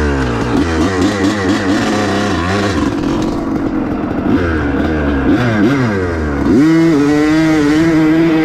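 A 250 dirt bike's engine being ridden hard. The revs climb and drop again and again through the gears, then about six and a half seconds in they jump to a higher pitch and hold steady.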